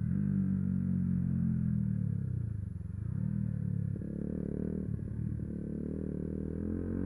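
Yamaha YZF-R125's single-cylinder four-stroke engine running while the bike is ridden; the revs drop about two and a half seconds in, then climb again.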